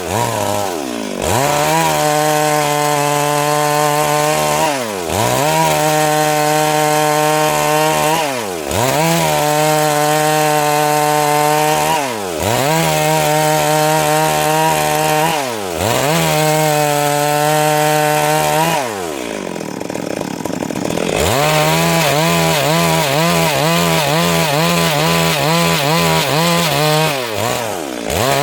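Stihl MS 382 two-stroke chainsaw running at high revs while cutting wood lengthwise into boards. Every three to four seconds its pitch drops and climbs back as the throttle is eased and reopened, with one longer drop about two-thirds of the way through.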